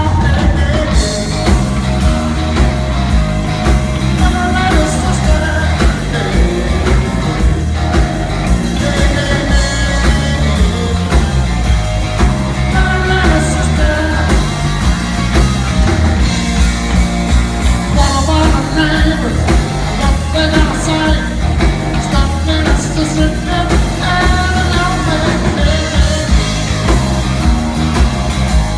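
A live rock band playing a blues-rock shuffle, with singing over a steady driving beat.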